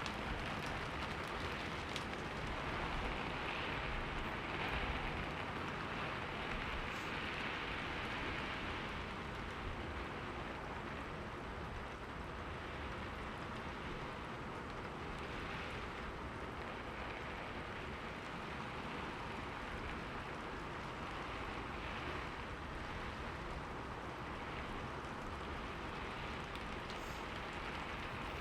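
Steady rain falling, an even hiss with slow swells in intensity.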